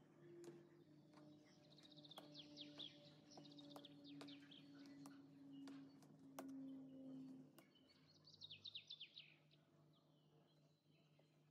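Faint birdsong: several bursts of quick, high, falling chirps, over a low steady hum with scattered light clicks.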